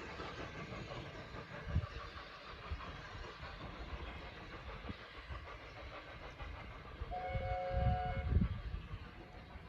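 A train running with a steady rumble and a few low thumps. Near the end, the locomotive sounds a brief two-note chord for about a second.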